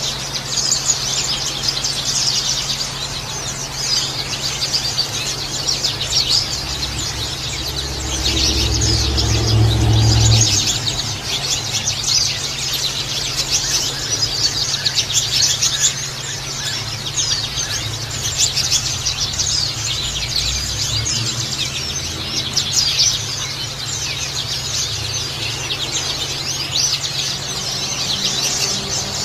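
Small songbirds chirping and twittering rapidly and without pause, over a steady low hum. About eight seconds in, a louder low sound rises for a couple of seconds.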